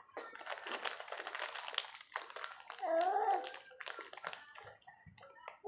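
Plastic snack wrapper crinkling and rustling for about two seconds, then a short gliding vocal sound from a child and a few small clicks.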